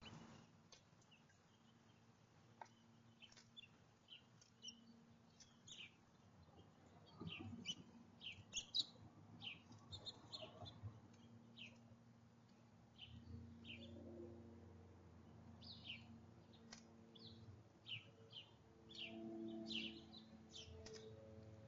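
Small songbirds giving many brief, high chirps, faint and irregular, one after another throughout.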